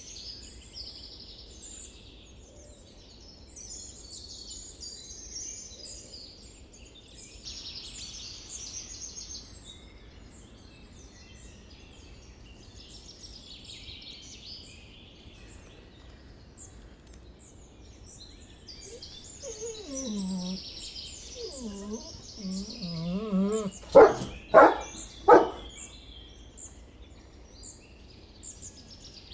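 Birds chirping steadily in the background. About twenty seconds in, a dog gives a wavering, pitched vocal call for a few seconds, then three loud barks in quick succession.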